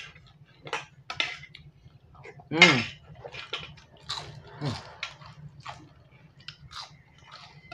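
Crunchy fried sotong snack being bitten and chewed, with a spoon clinking against a stainless steel bowl. A short hum of the voice falls in pitch about two and a half seconds in and is the loudest sound, with a smaller one near five seconds.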